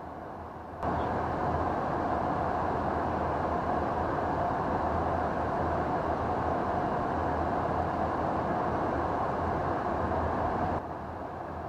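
Steady jet aircraft engine noise, an even rushing hum that starts abruptly about a second in and cuts off suddenly near the end.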